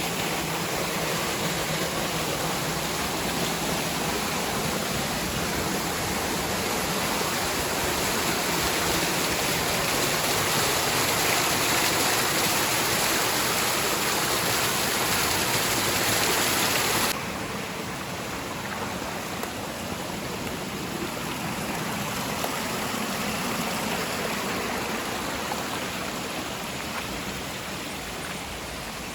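Steady rushing of a waterfall. A little over halfway through, the sound drops suddenly in level and loses much of its hiss.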